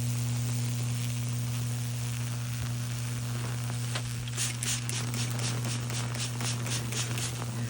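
High-voltage Lichtenberg wood-burning rig hums steadily while the current burns fractal tracks through the wood. About halfway in comes a run of sharp sizzling crackles, roughly four a second, as the arc spreads along the burn.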